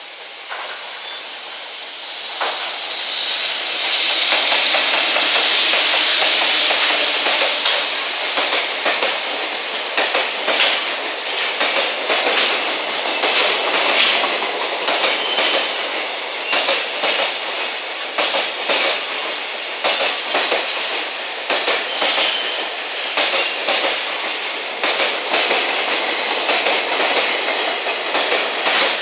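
JR Freight electric freight train passing close by: an EF210 locomotive hauling container wagons. It builds to a loud rush as the locomotive goes past. Then comes a steady clatter of wagon wheels clicking over rail joints, about one or two clicks a second.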